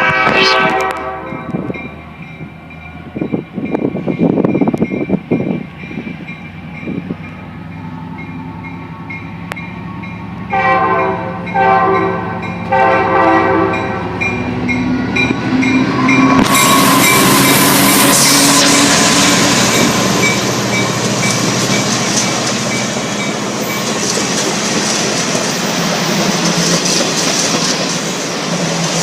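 Diesel passenger train departing: the locomotive's horn chord ends just after the start, and gusts of wind buffet the microphone. About eleven seconds in the horn sounds three short blasts. The diesel engine's note then rises as the train pulls away, and from about sixteen seconds in the passing train makes a loud, steady rushing of wheels and wind.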